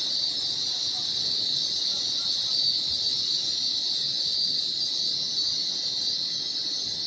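Steady, loud high-pitched hiss from a train, an even rush of air with no distinct tone.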